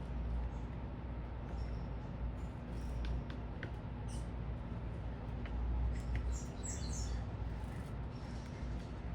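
Small birds giving short, high chirps now and then, with a quick cluster of them about six to seven seconds in, over a steady low rumble of city traffic.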